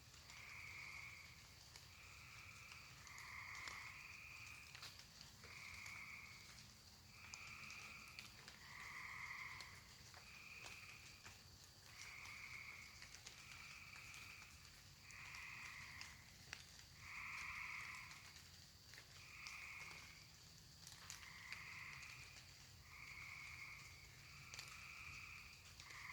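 Faint frog calls, each a trill about a second long, repeating every second or so through the whole stretch. Under them runs a steady high-pitched drone of crickets.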